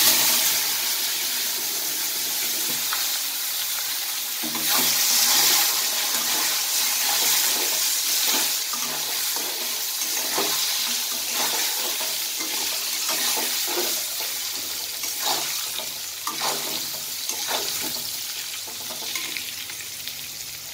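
Cut eggplant pieces dropped into hot oil in a steel kadai, breaking into a loud sizzle at once and then frying with a steady sizzle. A metal spatula scrapes and taps against the pan now and then as the pieces are turned.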